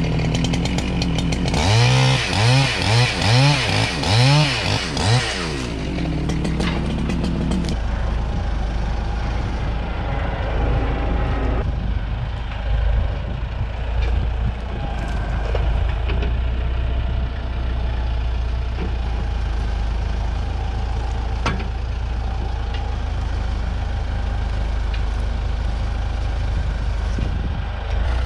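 Large chainsaw with a long bar revving up and down about five times in quick succession, then running steady for a few seconds before it stops about eight seconds in. After that a heavy engine idles steadily, with a few faint clicks.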